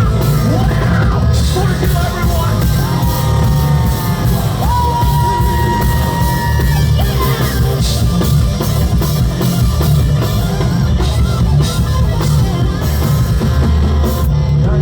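Rock band playing live and loud, with heavy bass and drums and long held notes sung or played over the top in the first half.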